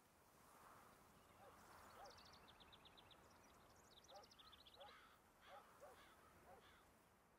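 Faint outdoor ambience with birds calling. A rapid trill of high chirps, about eight a second, comes about two seconds in and again around four seconds. A string of short, lower calls repeats every half second or so through the second half.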